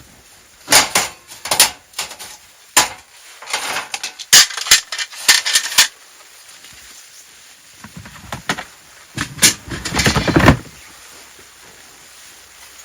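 A series of sharp knocks and clatters, several in the first half, then a rough scraping or rustling noise lasting about a second and a half near the end.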